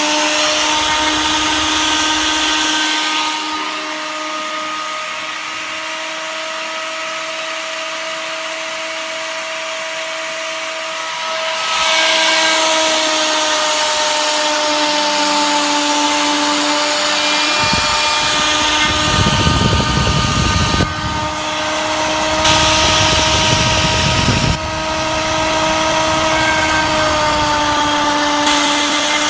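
Die grinder spindle of a CNC machine running at speed with a steady whine while a small 3 mm two-flute bit mills the workpiece. The cutting hiss comes and goes as the tool moves, with a rougher, louder stretch about two-thirds of the way through.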